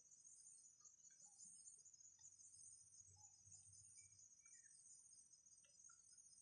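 Near silence with faint, steady, high-pitched chirring of insects, pulsing rapidly and evenly.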